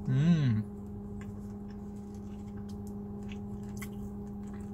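A short closed-mouth "mmm" hum from a man with his mouth full, rising then falling in pitch, followed by faint clicky chewing sounds as he eats fried chicken. A steady low hum runs underneath.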